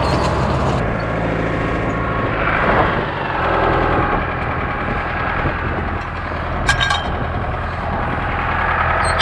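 Farm tractor's diesel engine running steadily, with a short metallic clatter just before the seven-second mark.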